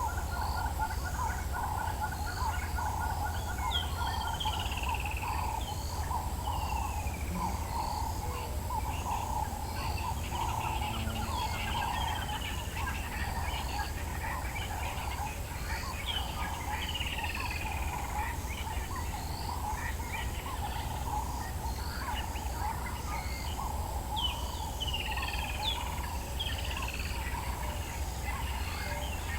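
Dawn bird chorus in the African bush: a dense, continuous chatter of many birds, with clear falling whistles repeating every few seconds above it, over a steady low rumble.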